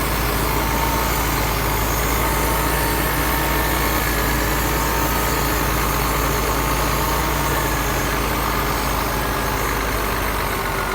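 Heavy diesel earthmoving machinery running steadily: a low engine drone with a faint whine above it.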